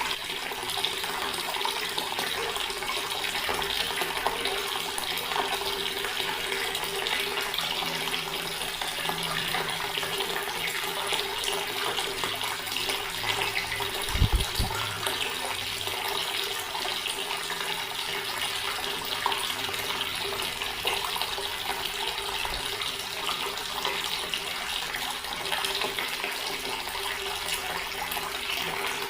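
Water from a tap running steadily into a stone basin, an even splashing flow. A brief low thump comes about halfway through.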